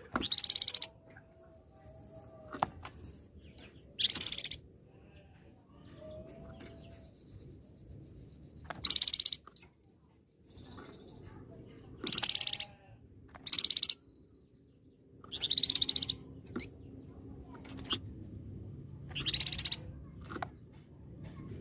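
Flamboyan (scarlet minivet) calling in loud, sharp bursts of about half a second each, seven or so, repeated every few seconds at irregular spacing. Faint thin whistles sound between the bursts.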